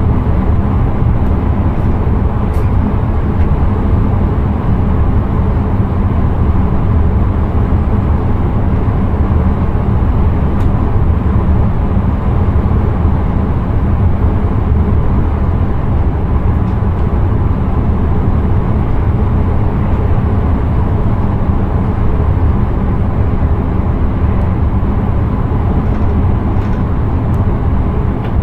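Steady running noise of an intercity train travelling at speed, heard from inside the driver's cab: a constant low rumble of wheels on rail, with no change in pace.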